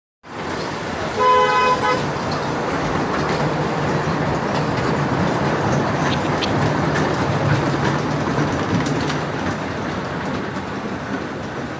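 A park ride train's horn toots once for just under a second, about a second in, then the train keeps up a steady running rumble.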